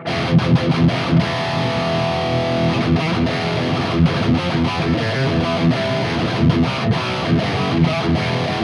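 High-gain distorted electric guitar riff, fast picked notes, played through a Mooer Brown Sound 5150-style preamp pedal on its red channel with no boost. The bass is set to about two o'clock, which brings back the low end that thins out at lower settings.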